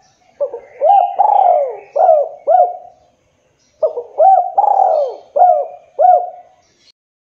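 Island collared dove (derkuku) cooing: two phrases of about five arched coos each, the first starting about half a second in and the second about 4 seconds in.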